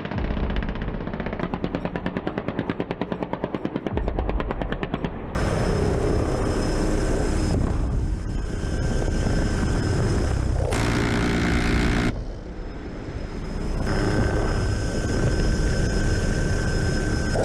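Military helicopter audio across several edited clips. It opens with a rapid, even run of pulses, then from about five seconds in gives way to the steady noise of turbine engines and rotors with a high-pitched whine, cut sharply a few times.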